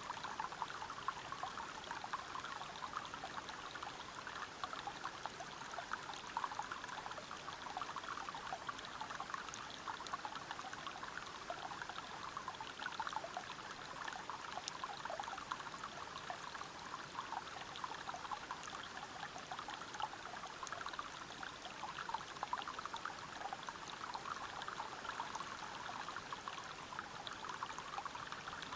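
Steady rushing and splashing of river water falling over rocks at a small waterfall, an even continuous flow with fine bubbling and splashing detail.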